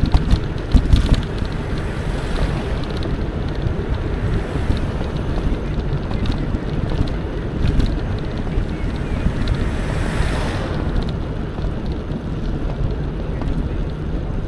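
Wind buffeting the microphone while riding a bicycle along a trail, a steady low rumble with tyre noise and scattered small clicks and rattles from the bike.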